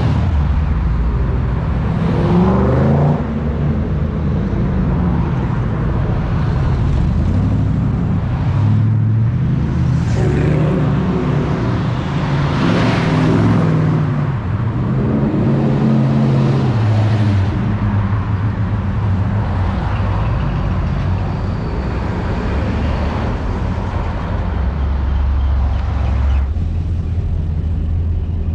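Classic muscle car engines running and revving as the cars cruise past, the pitch rising and falling several times, then settling to a steadier low note near the end.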